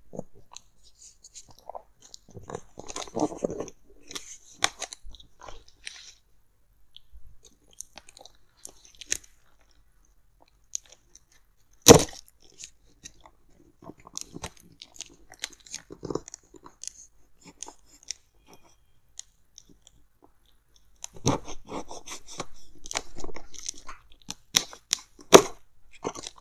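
Close-miked handling of a headphone box while it is unboxed: scattered crackles, scratches and taps of packaging. One sharp knock comes about halfway through, and the crinkling grows denser near the end.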